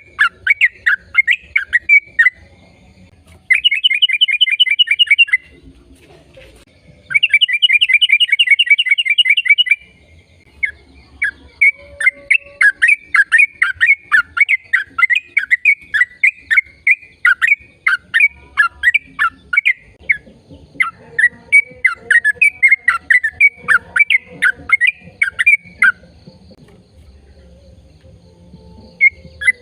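A bird singing: long runs of quick repeated chirps, broken by two fast trills early on, with a short pause near the end.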